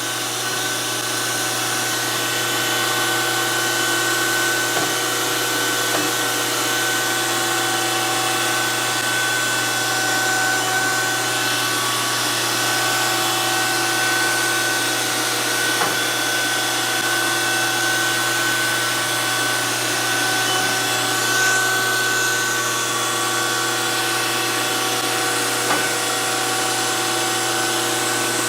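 DoAll 14-inch surface grinder running, its spindle turning the wheel and its hydraulics driving the table: a steady whine over an even hiss and low hum, with a few faint clicks.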